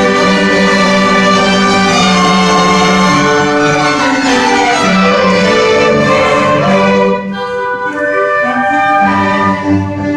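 An orchestra playing, with violins over cellos, sustained bowed notes changing pitch in steps. It gets a little quieter about seven seconds in.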